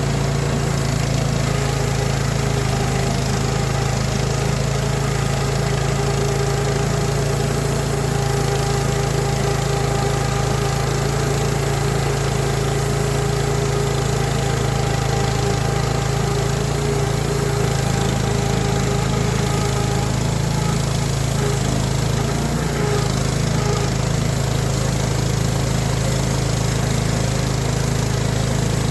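Small engine on a sawmill running steadily at an even speed, with no change in pitch or load.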